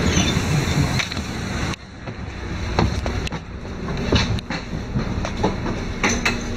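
LiAZ-5292 low-floor city bus heard from inside: engine and road noise with scattered rattles and knocks from the body. The noise drops suddenly about two seconds in, then builds back up.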